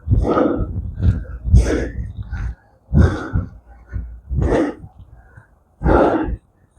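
A man's hard breathing while doing squats: a forceful exhale about every second and a half, one per rep, five in all.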